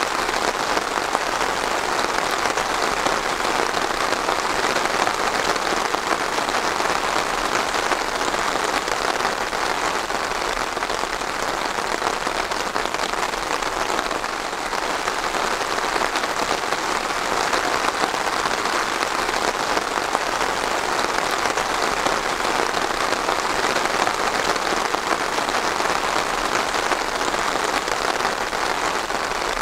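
Steady rain falling on a surface, a dense even hiss of many drops with no single hits standing out.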